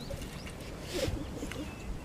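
Birds calling over a steady low rumble, with a few short low calls about a second in.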